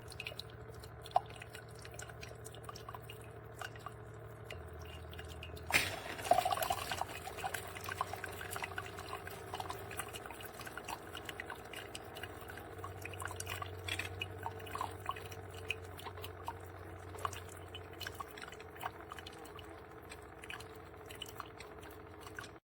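Cuisinart SS-16 coffee maker running, with water dripping and small irregular ticks over a low steady hum; a sharp click about six seconds in.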